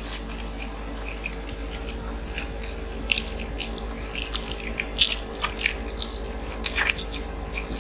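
Two people biting into and chewing crispy glazed Korean fried chicken, with scattered short crunches and mouth clicks. A steady low hum runs underneath.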